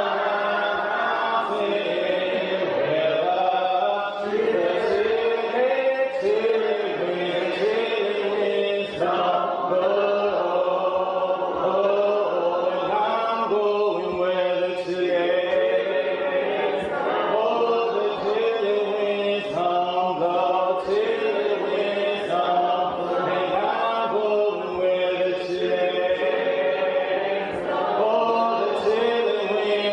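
Group of voices singing a hymn a cappella, held notes in several parts with no instruments.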